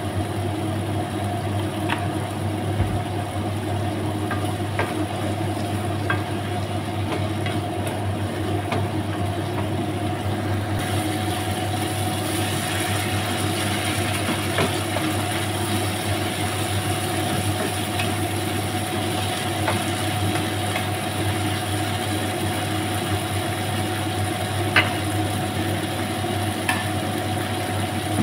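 Sautéed dried anchovies with tomato sizzling in a frying pan as they are stirred with a wooden spatula, the spatula knocking against the pan a few times; the sizzle hiss grows stronger after about ten seconds. A steady low mechanical hum runs underneath.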